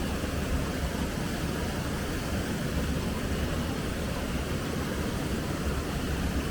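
Steady rushing of a flowing river, a constant low rumble.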